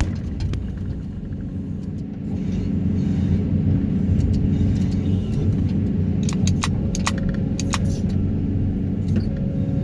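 Excavator with a vibro hammer for sheet-pile extraction, its engine and hydraulics running steadily; the sound rises about two seconds in, and a few sharp clicks come in the second half.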